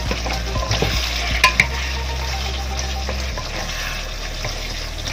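Pork and squash sizzling in sauce in a nonstick wok while a wooden utensil stirs and scrapes through it, with two sharp taps of the utensil against the pan about a second and a half in.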